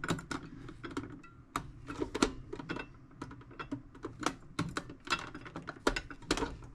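Irregular sharp clicks and short scrapes of a thin blade picking and prying at parts stuck tight in a toolbox.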